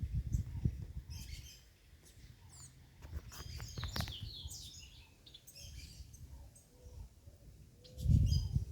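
Small birds chirping and calling in short, scattered high notes. Irregular low rumbling comes in at the start and again louder near the end.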